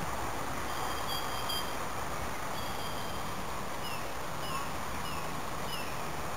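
A steady low background rumble with a small bird's high, thin calls: a few short held notes, then brief downward-sliding notes about twice a second in the second half.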